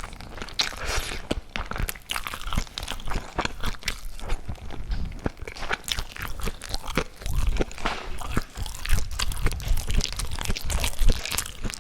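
Close-miked bites and chewing of crunchy food, a dense run of sharp crackling crunches with low jaw thuds.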